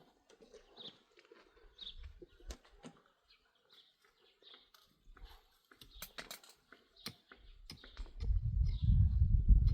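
A small bird chirping repeatedly, with a few sharp clicks near the middle and a loud low rumble setting in about eight seconds in.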